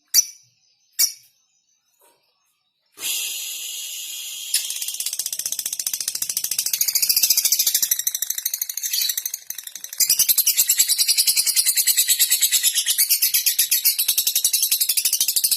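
Lovebird calling: a few short, sharp chirps, then from about three seconds in a rapid, high-pitched, continuous chatter (the 'ngekek' trill), louder from about ten seconds in.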